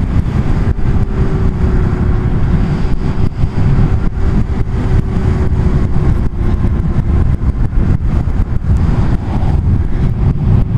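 Zero SR electric motorcycle riding at a steady speed: loud wind rumble buffeting the microphone, with a thin, steady hum from the electric drivetrain that holds one pitch almost throughout.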